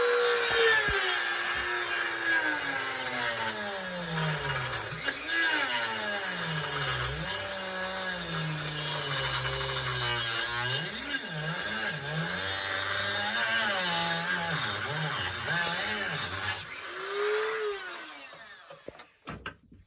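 Dremel rotary tool grinding into a pine block. Its motor whine drops and wavers in pitch as it bogs down under the cutting load. The grinding stops about three-quarters of the way through, and the motor briefly whines up and down before fading out.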